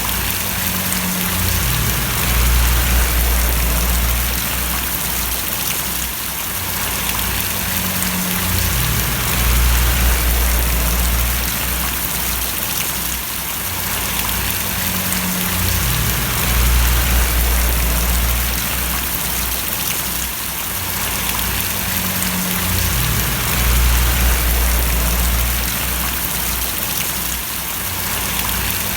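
Rain falling steadily and splashing, an even hiss of drops, with a low rumble underneath that swells and fades about every seven seconds.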